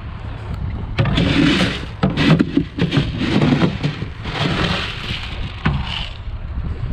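Soybean seed scooped and poured into a planter hopper: a few rattling pours, with sharp knocks about a second in and near the end. A tractor engine runs low underneath.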